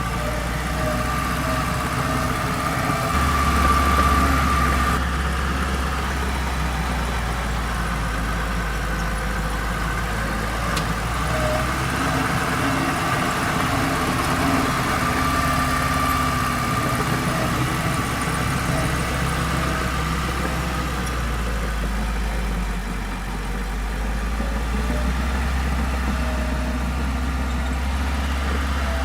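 Heavy earthmoving machinery's diesel engines running steadily at low revs, with a deep continuous rumble.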